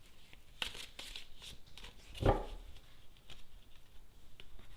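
Lenormand cards being shuffled and handled: light rustling and card clicks, with one soft thump about two seconds in.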